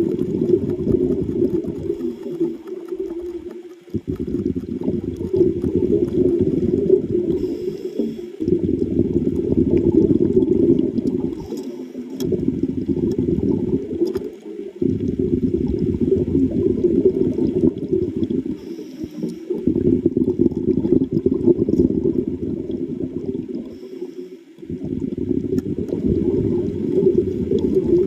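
Muffled underwater rumbling and gurgling of water and air bubbles, in long surges broken by brief pauses every four to five seconds, like a diver's exhaled breath bubbling out.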